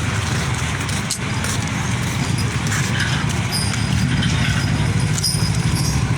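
Motor vehicle engine running steadily, a low even drone with road noise around it.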